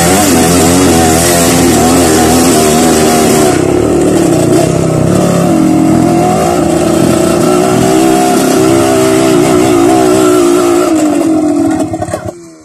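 Dirt bike engine running on a hill trail, its pitch wavering up and down with the throttle. The sound drops away suddenly near the end.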